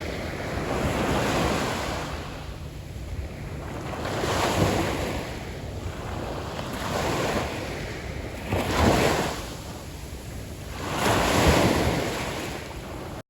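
Wind buffeting the microphone over rushing water, swelling and easing in surges every two to three seconds.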